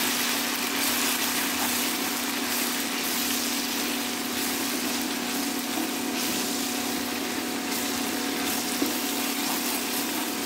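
Ginger-garlic-green chilli paste sizzling steadily in hot oil in a nonstick frying pan as it is stirred with a wooden spatula, the paste's moisture cooking off as it sautés. A steady low hum runs underneath.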